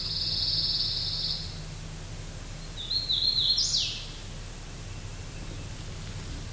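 Small songbirds singing: a high, buzzy trill lasting about a second and a half, then about three seconds in a short stepped phrase ending in a quick downward sweep, over a steady low hum.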